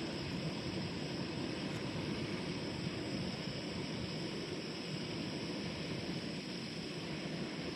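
Steady roar of a portable gas camp stove burner under a pan of cutthroat trout frying in butter, with no breaks or changes.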